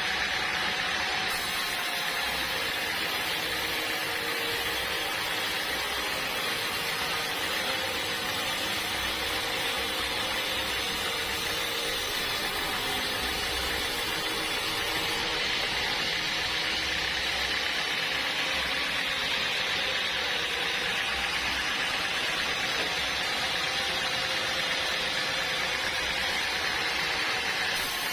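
Bandsaw sawmill running at a steady pitch and level with no pauses, a continuous hiss heard through the whole stretch, as when the blade is working through a log.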